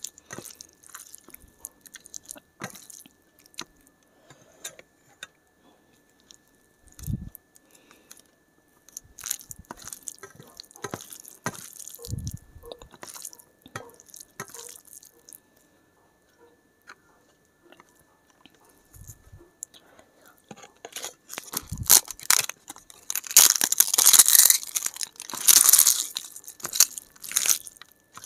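Close-miked eating: a person chewing with scattered mouth clicks and a few soft knocks, then loud, crisp crunching for several seconds near the end.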